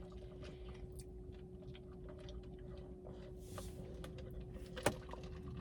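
Faint small clicks and handling noises from eating at the table, with a soft hiss about three and a half seconds in and a sharper click near the end, over a low steady hum.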